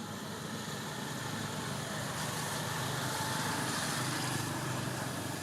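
A motor vehicle's engine running steadily with a low hum, the noise swelling a little in the middle.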